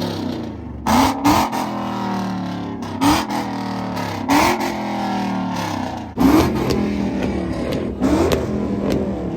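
Car engine revved hard about five times, each rev a quick rise in pitch with a loud sharp burst at its peak, falling back between revs.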